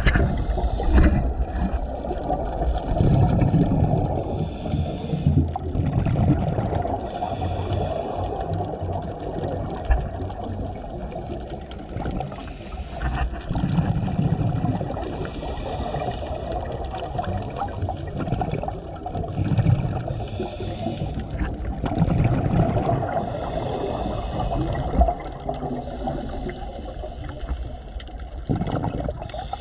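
Underwater sound of a scuba diver breathing: gurgling bursts of exhaled bubbles recur every five to six seconds over a steady low water rumble.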